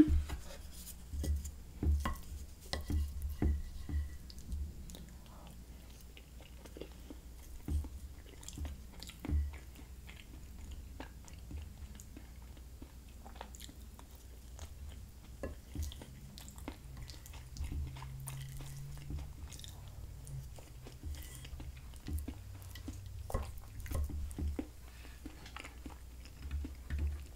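Close-miked chewing and mouth sounds of a person eating a turkey dinner, with scattered light clicks of a wooden fork on the plate.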